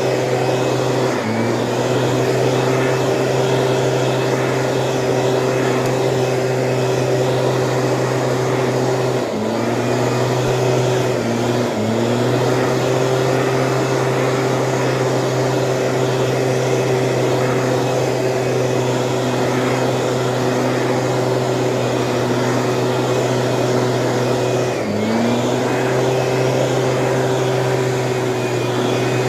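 Two-stroke engine of a Stihl backpack power sprayer running steadily at high speed, its pitch dipping briefly and recovering four times.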